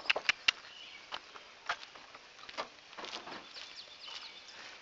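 Birds chirping in short, quick high calls, with a few sharp clicks or taps, four of them close together right at the start.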